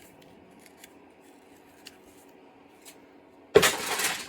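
A few faint clicks of chainsaw parts being handled, then about three and a half seconds in a sudden loud rattling clatter of hard parts or a tool on the workbench, lasting under a second.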